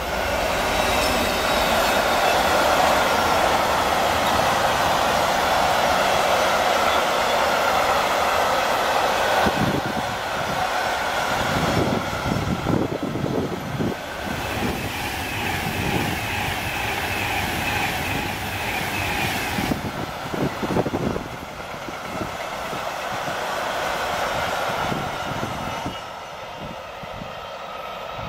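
Diesel freight locomotive and its long train of box wagons passing at speed. The locomotive's engine noise is loudest for the first several seconds, then the wagons clatter and rattle over the rail joints in an uneven beat, dropping in loudness near the end as the train moves away.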